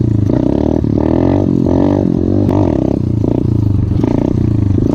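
Coolster 125cc pit bike's single-cylinder four-stroke engine revving in repeated short throttle bursts. Its pitch rises and falls many times as the rider works the throttle to lift the front wheel for a wheelie.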